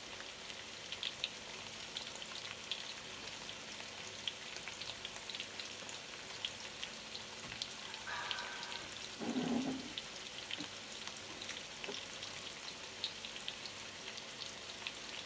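Chicken frying in a pan, a steady sizzle with a light crackle of small pops.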